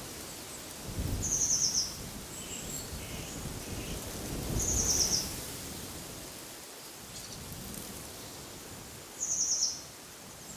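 A small songbird gives a short, high, rapid trill three times, about every four seconds, over a steady rush of wind through trees.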